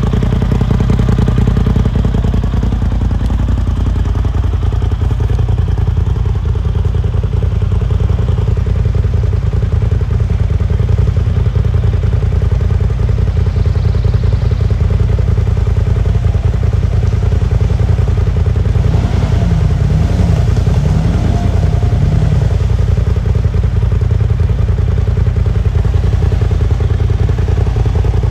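Ranger's engine running steadily with a strong low drone as it is driven through mud holes. A brief wavering tone rises and falls about two-thirds of the way through.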